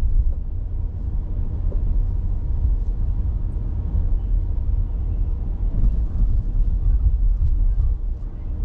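A car driving, heard as a low, steady rumble of engine and road noise.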